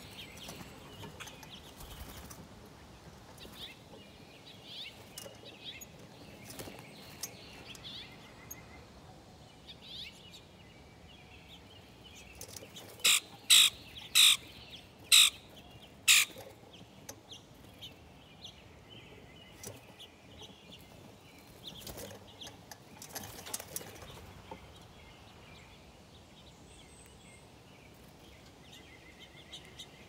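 Small birds at a feeder chirping softly on and off, with a run of five loud, sharp notes about halfway through and scattered light clicks.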